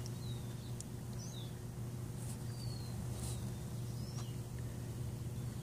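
Several short, faint bird chirps, each a quick rising or falling whistle, scattered over a steady low hum of outdoor background noise.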